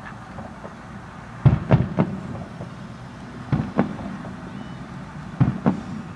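Fireworks bursting, in groups of two or three sharp bangs about every two seconds, over a steady low rumble.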